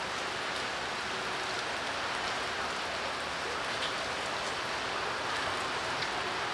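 Steady rain falling, an even hiss with a few light drop ticks scattered through it.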